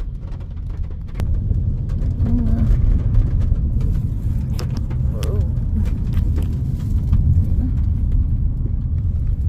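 Steady low rumble of a car moving along a road, heard from inside: road and engine noise, with a few faint clicks.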